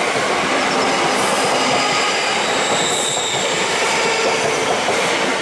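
Two coupled Class 334 electric multiple units moving off past the platform after being held at a signal: a steady loud rumble of wheels on the rails with faint high-pitched tones over it.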